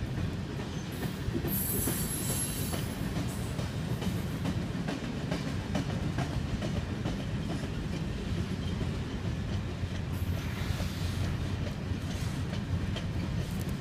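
Loaded freight train of covered grain hopper cars rolling past: a steady low rumble of steel wheels on rail with repeated clacking over the rail joints. High wheel squeal rises briefly about two seconds in and again near ten seconds.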